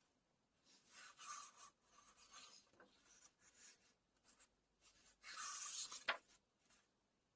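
Paper of a book being handled: soft rustling and rubbing of pages, a louder swish of a page a little past five seconds, and a sharp tap just after six seconds.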